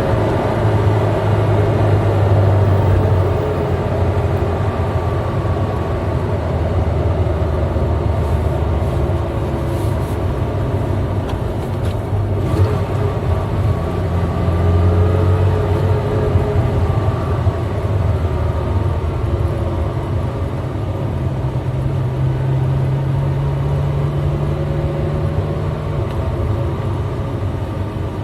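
Eight-cylinder car engine running under way, likely in fifth gear, with a steady low drone whose pitch rises and falls gently a few times as the revs change.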